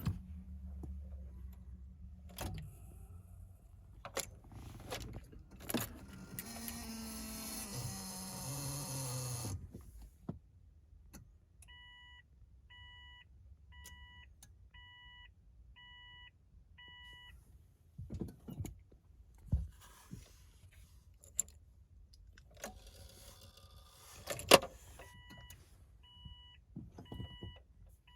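Inside a car: a motor whirs for about three seconds, then the car's warning chime beeps about once a second, six times, and starts again near the end, with clicks and a few sharp knocks in between.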